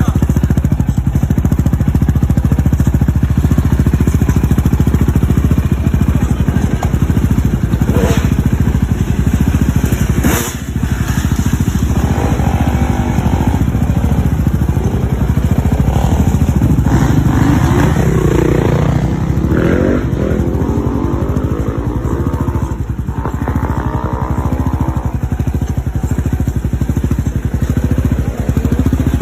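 Quad bike (ATV) engine running loudly and revving up and down, with a short sharp noise and a brief drop in level about ten seconds in.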